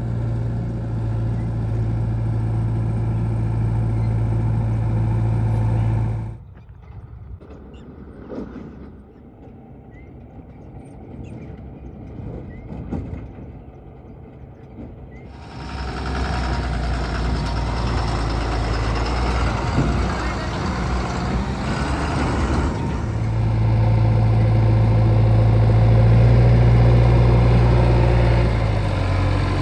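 Heavy diesel engine of earthmoving machinery running steadily with a low, even hum. About six seconds in it drops away to a much quieter stretch of about nine seconds, then comes back and grows louder in the last third.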